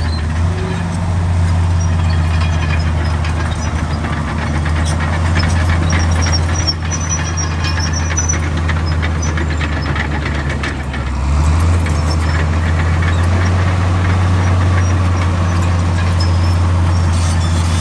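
Heavy diesel engine of earthmoving machinery running steadily, with scattered metallic clanks and a faint high squeal in the middle. The engine note swells about eleven seconds in.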